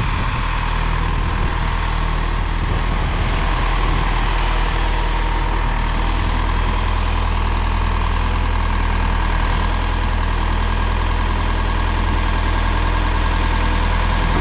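1974 John Deere 2030 tractor engine running steadily as the tractor is driven up, loud and close.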